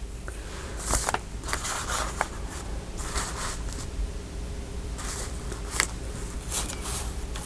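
Paper pieces being handled and moved about on a journal page: intermittent rustles and light taps, over a steady low hum.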